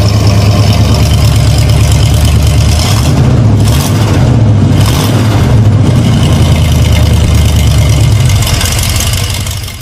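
Loud muscle-car engine rumble, with a deep steady drone that shifts in pitch midway, fading out near the end.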